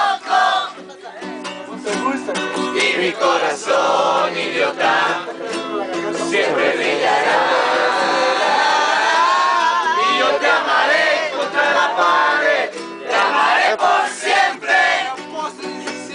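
A group of people singing and shouting together, with a strummed string instrument.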